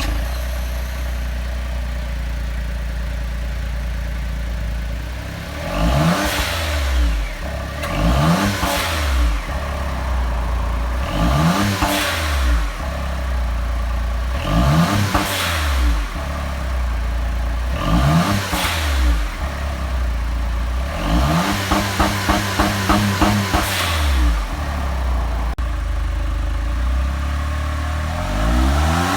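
Honda S660's small turbocharged three-cylinder engine, breathing through an HKS Legamax Sports aftermarket muffler, idling and then blipped five times, each rev rising and falling back to idle. Then comes a longer rev of about three seconds that holds at one pitch with a rapid stutter, the rev limiter cutting in, before it drops back to idle.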